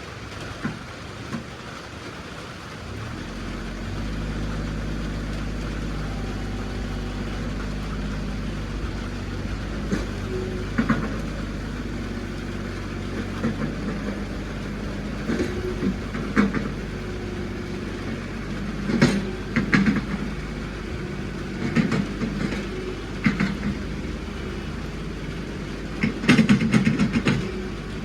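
A farm vehicle's engine running steadily, growing louder about three seconds in, with scattered clanks and rattles over it and a burst of rattling near the end.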